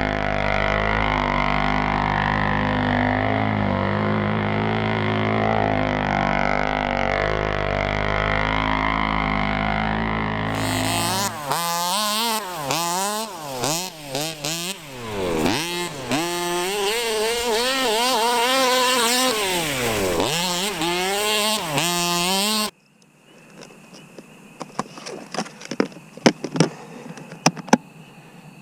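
A small engine running steadily, then revved up and down over and over; it cuts off suddenly, leaving faint scattered crackles and clicks.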